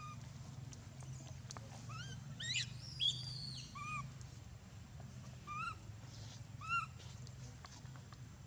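Baby monkey crying in a series of short, high-pitched squeaks, about seven in all, the loudest about three seconds in, over a steady low hum.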